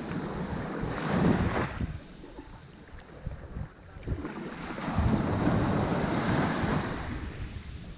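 Ocean waves breaking on a shore: one wave crashes about a second in, a short lull follows, then a longer wash of surf builds about five seconds in and runs on. Wind buffets the microphone along with it.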